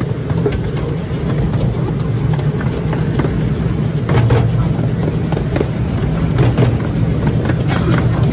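Narrow gauge railway train running along the track, heard from on board: a steady low rumble from the carriage wheels with irregular clicks and clacks throughout.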